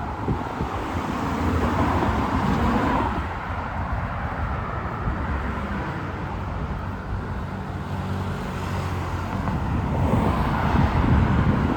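City street traffic: cars passing, swelling and fading about a second or two in and again near the end, with a steady low engine hum in between.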